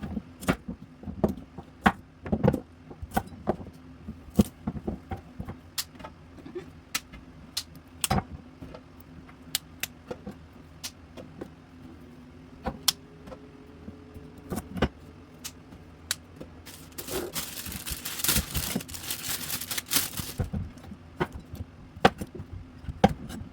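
Irregular knocks and clatter of vegetables being handled and dropped into a large cooking pot, with a few seconds of rustling and sliding noise about three quarters of the way through.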